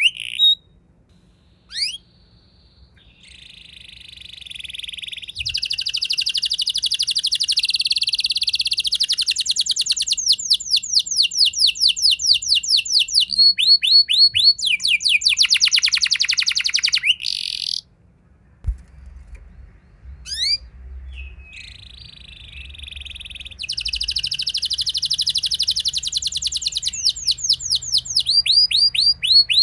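Domestic canary singing long rolling trills: runs of fast, evenly repeated high notes that each sweep downward, broken by a few short, quieter pauses near the start and about two-thirds of the way through.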